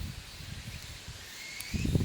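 Irregular rustling of dry leaves and twigs, heard as low muffled thumps that grow louder near the end, with a short high rising chirp about three quarters of the way through.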